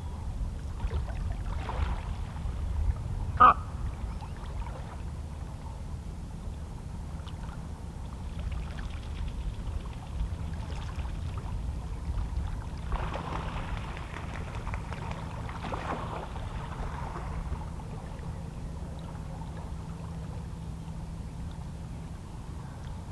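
Small, calm sea waves lapping and washing against shoreline rocks, with one sharp slap of water about three and a half seconds in and softer washes swelling in the middle, over a steady low rumble.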